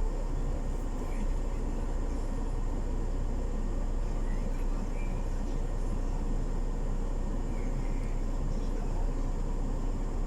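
A loaded semi-truck's diesel engine running steadily at idle with a low, even hum.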